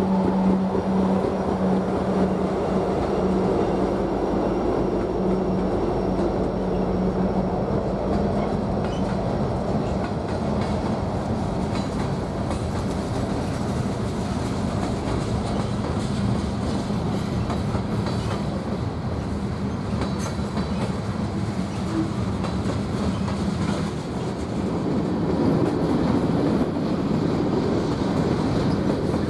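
BNSF freight train rolling past: the steady rumble and clatter of its cars' wheels on the rails. A low steady hum fades out over the first several seconds.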